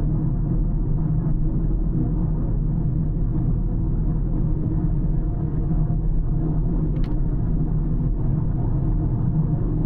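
Car driving along a road: steady low rumble of tyre, road and engine noise, with a brief click about seven seconds in.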